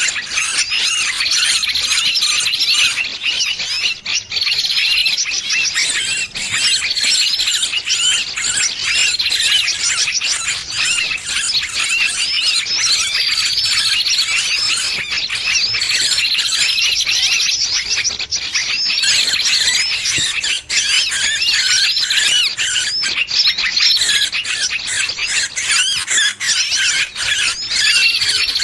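Small birds' distress calls: shrill, rapid squealing and chattering that goes on without a break, with a brighter high phrase returning every two to three seconds. This is the 'bird caught' alarm call played as a lure to draw other birds in.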